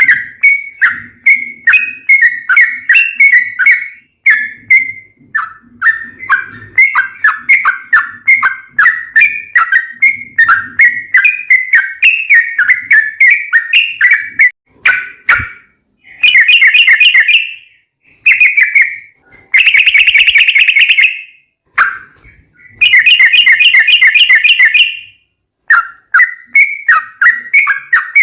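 Yellow-vented bulbul (trucukan) song: a fast, continuous run of short chirping notes, several a second. From about the middle it is broken by three loud, rapid trills, each a second or two long, the 'ropel' phrases.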